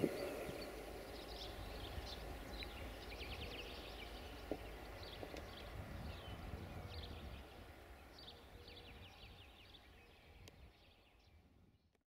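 Birds chirping in repeated quick phrases over a low background rumble, all fading out over the last few seconds.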